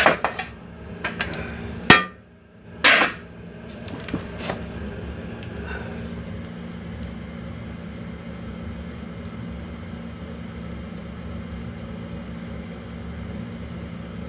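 Several sharp knocks and clanks, like metal and firewood being handled at a wood-fired stove, the loudest about two and three seconds in. After that a steady low hum with a few faint ticks.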